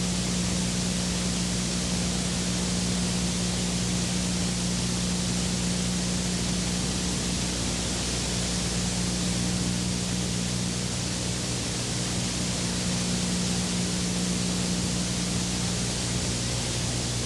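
Steady, even hiss with a low, constant hum beneath it; nothing starts, stops or changes.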